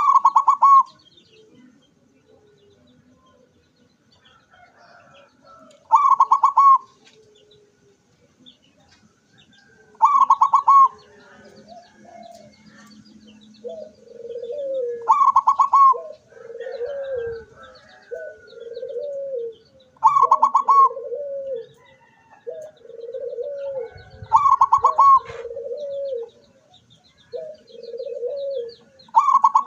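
Zebra doves (perkutut) cooing: a loud, rapid trilled coo about every five seconds. About halfway through, a second, lower-pitched coo joins in, repeating roughly every second and a half.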